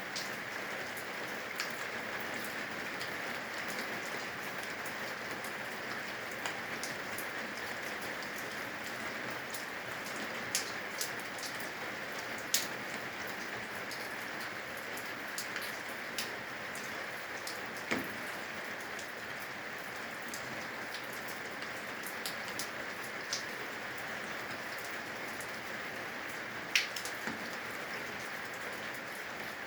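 Steady rain falling on the eaves of a roof, a constant hiss with scattered sharp drips landing close by; the loudest drips come about midway and near the end.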